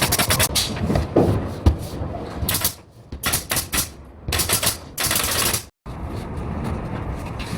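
Sharp clacks from a pneumatic nail gun firing in quick runs, with short bursts of hiss between them. About six seconds in, the sound drops out and gives way to steady background noise.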